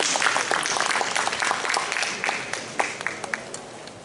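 Seminar audience applauding, a dense patter of many hands clapping that thins out near the end.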